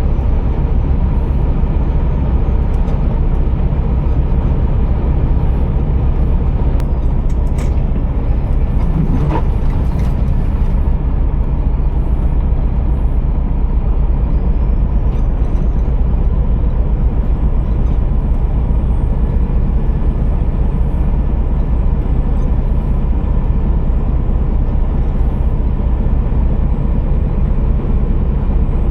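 Scania R480 truck's straight-six diesel engine running steadily with a deep, constant rumble, with a brief sharp sound about nine seconds in.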